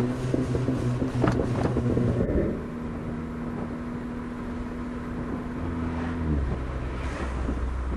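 A car engine running at a steady pitch. Its pitch steps down about two and a half seconds in and again near six seconds, with a few knocks in the first two seconds.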